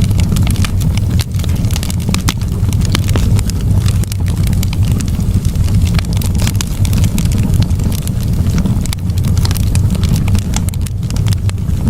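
Campfire burning, with frequent irregular crackles and sharp snaps over a steady low rumble.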